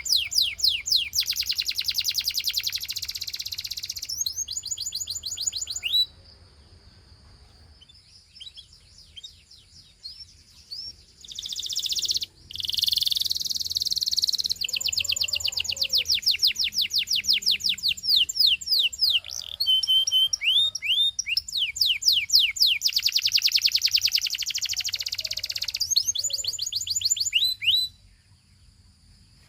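Gloster canary singing in rapid rolls of repeated sweeping notes. The song breaks off about six seconds in, with only scattered notes for several seconds, then resumes and runs until shortly before the end.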